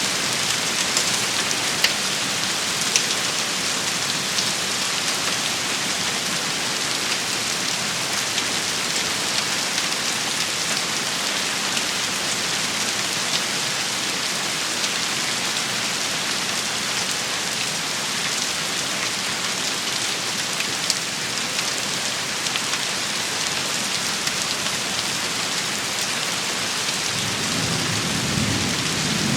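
Steady rain shower pattering on surfaces, a dense even hiss with scattered sharp drop taps. A low rumble of thunder rises near the end.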